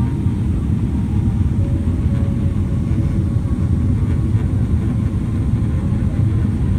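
Steady low rumble of a Boeing 777 airliner landing, its engines and airflow making a dense, even noise with no breaks.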